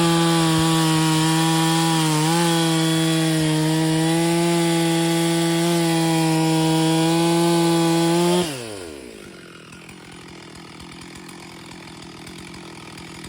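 Stihl MS 440 70cc chainsaw running flat out at a steady high pitch while cutting through wood, with a brief dip in revs about two seconds in. About eight seconds in the throttle is released and the revs fall away sharply, leaving it much quieter.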